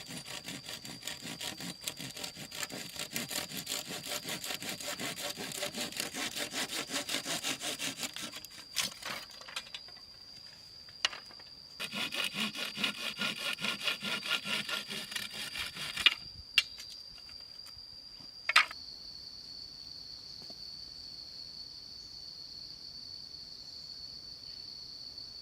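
Wood being sawn by hand in steady back-and-forth strokes, about two or three a second. There are two runs of sawing with a pause between them, each followed by a few sharp knocks, and the sawing stops a little over halfway through. A steady high insect drone runs underneath and is heard alone once the sawing stops.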